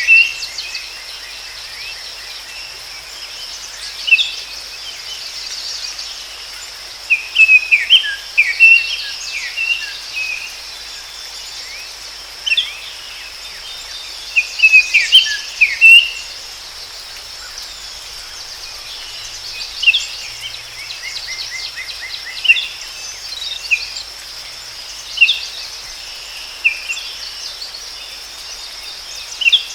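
Forest ambience: songbirds giving short clusters of quick chirps every few seconds over a steady, high insect drone.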